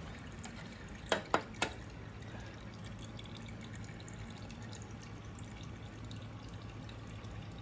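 Engine oil dripping during a motorcycle oil drain: three sharp ticks close together about a second in, over a faint steady hum.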